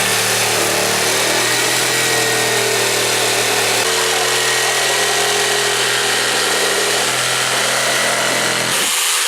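Power tool motor running steadily under load, with a slight shift in its tone about four seconds in.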